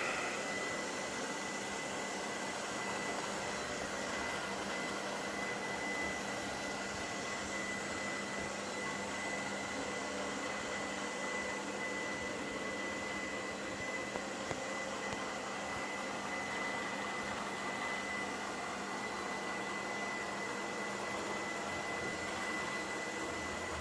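iLife robot vacuum cleaner running while it vacuums: a steady motor and suction noise with a constant high whine.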